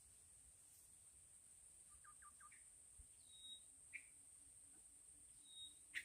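Faint, short bird chirps and whistled peeps, a quick run of three chirps about two seconds in and a few single notes later, over a steady high-pitched drone.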